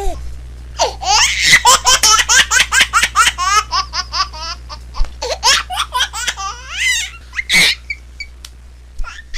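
Baby laughing: a long run of quick, high-pitched laughs, several to the second, dying away after about eight seconds.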